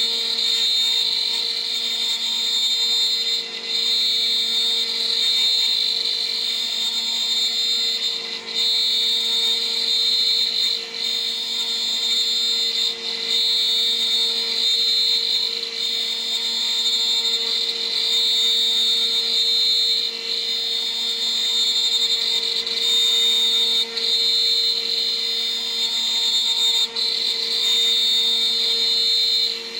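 CNC router spindle running steadily at about 14,000 RPM, driving a 3 mm three-flute end mill as it mills a part, with a high whine and brief dips every few seconds.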